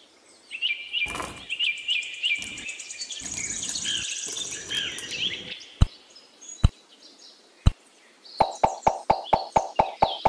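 Small birds chirping and twittering for the first half. Then three sharp clicks about a second apart, and from near the end a fast, even ticking pulse of about four beats a second.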